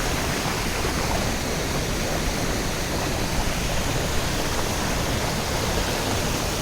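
Waterfall: a steady, heavy rush of falling water.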